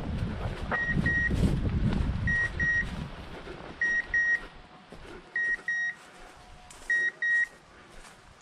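Hunting dog's beeper collar sounding short electronic double beeps, five pairs about a second and a half apart. This is the point ('ferma') mode, signalling that the dog is standing still, holding the boar. Wind rumbles on the microphone for the first few seconds.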